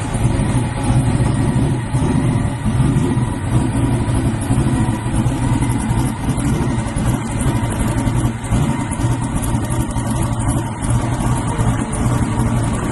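Loud engine idling with a steady low rumble; the pitch holds level throughout with no revving.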